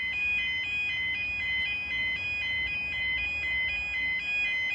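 Level crossing warning alarm sounding: an electronic two-tone alarm alternating rapidly and steadily between two high pitches, signalling that the barrier is about to lower for an approaching train.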